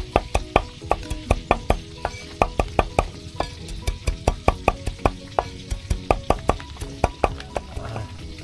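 Knife chopping rapidly on a cutting board, about four sharp strokes a second, over background music.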